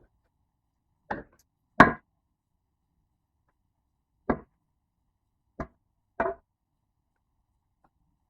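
Wood being chopped up for firewood: five sharp, uneven blows, the second the loudest.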